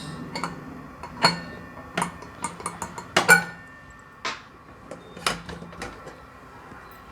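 Kitchen utensils being handled: a string of short, sharp clinks and knocks of metal and glassware, about a dozen at irregular spacing, loudest a little over a second in and again a little over three seconds in.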